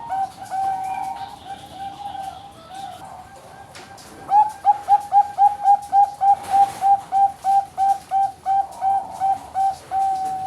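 Bangkok-type perkutut (zebra dove) singing its cooing song. A held note opens it, then comes a short lull and a fast run of short cooing notes, about three a second, that ends on a longer held note.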